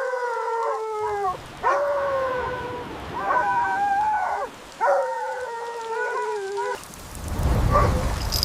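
Dog howling: four long, drawn-out cries in a row, each sliding slightly down in pitch, with short breaks between them. A low rushing noise comes in near the end.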